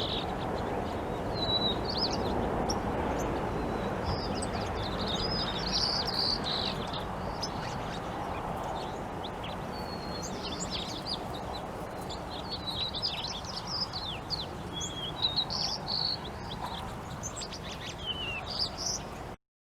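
Songbirds chirping and trilling in quick, overlapping short phrases over a steady low background hiss. The sound cuts off suddenly near the end.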